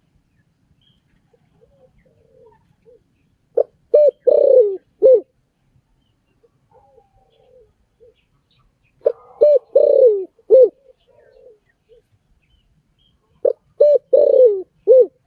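Spotted dove cooing: three repeated song phrases about five seconds apart, each a short note, two quick notes, a longer falling coo and a clipped final note, with fainter coos between them.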